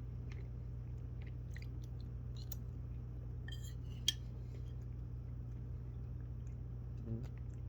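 Scattered small crunches and clicks of food being eaten, with one sharper click about four seconds in, over a steady low hum.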